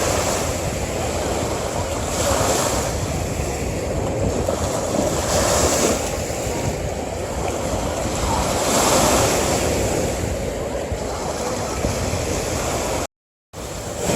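Ocean waves washing onto a beach, a steady surf hiss that swells every few seconds. Near the end the sound drops out completely for about half a second.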